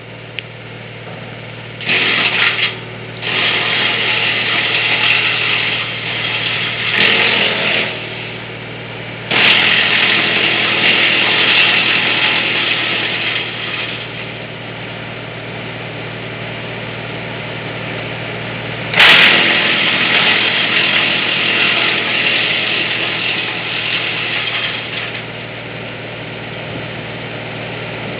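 Mini-tractor-driven VKh-42 wood chipper running steadily with a low hum, breaking into loud grinding stretches of a few seconds each as branches are fed in and chipped, the longest starting about ten seconds in.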